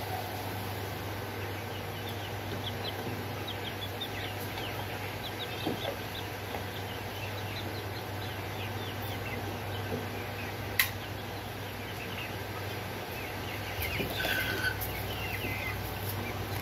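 Birds calling in the background, many short chirps, over a steady low hum, with one sharp click about eleven seconds in.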